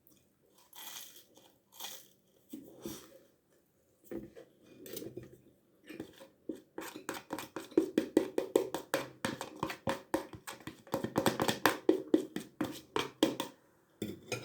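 Close-up mouth sounds of a person chewing chili con carne and dipped toast: a few soft sounds at first, then from about halfway a quick, dense run of wet chewing smacks and clicks that stops shortly before the end.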